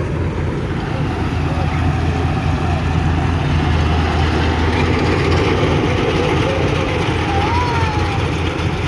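A motor engine running steadily with a loud, even low hum, likely powering farm machinery for the paddy harvest.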